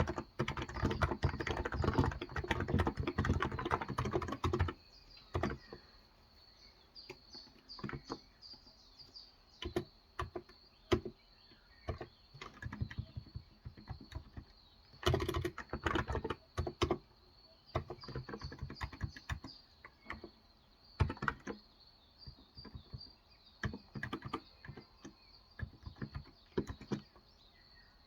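Typing on a Cox Endeavour 35 g tenkeyless electro-capacitive keyboard: a fast run of keystrokes for the first few seconds, then scattered keystrokes and short bursts. Birds chirp faintly in the background.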